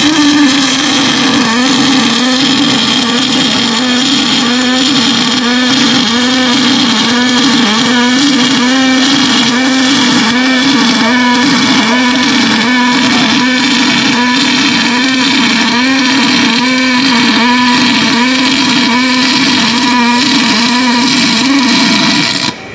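Pulse MIG welder arc running continuously: a steady buzzing hum over a crackling hiss, its pitch wavering up and down about once or twice a second. It stops abruptly near the end.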